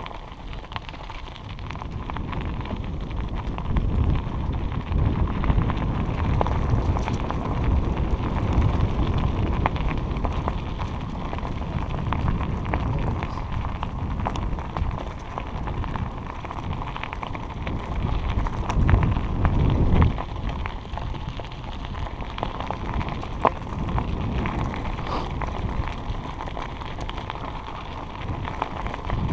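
Wind buffeting the microphone of a bicycle rider's camera in low rumbling gusts, strongest about four to nine seconds in and again near twenty seconds, over a steady fine crackle of bike tyres rolling on a trail surface.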